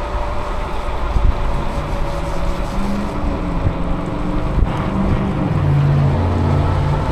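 Wind on the microphone and road noise while riding a bicycle in traffic, with the low hum of a nearby motor vehicle's engine that steps up and down in pitch and grows a little louder about two thirds of the way through.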